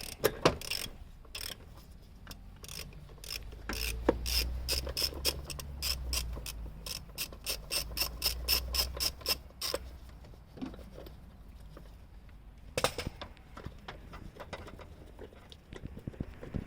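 Hand ratchet wrench clicking in a quick, even run, about five clicks a second, as an engine mount bolt is worked loose; the run stops about ten seconds in, and a few more clicks come later.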